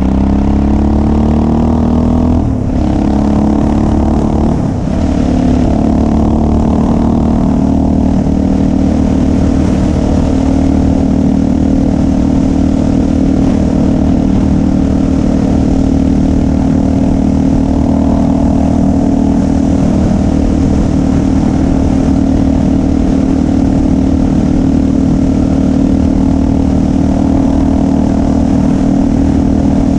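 Motorcycle engine under way on the road. Its pitch rises, drops back twice in the first five seconds as the bike changes up, and then holds steady at cruising speed.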